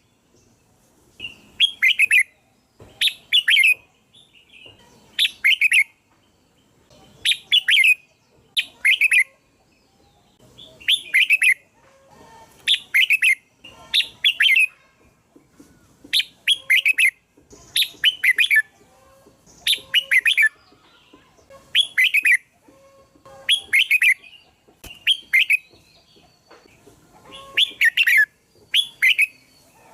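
Red-whiskered bulbul singing: short, bright chirping phrases repeated every second or two, often in quick pairs.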